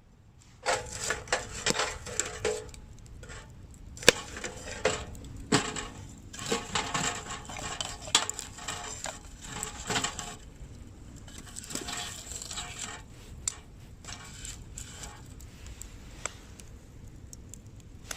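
Irregular clinks and clatters of small hard objects, metal and wood, being handled and knocked together, some with a brief metallic ring. The knocks come thickly for the first ten seconds or so, then thin out to occasional taps.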